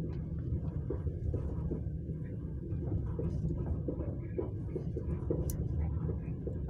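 Passenger train running: a steady low rumble with scattered light knocks.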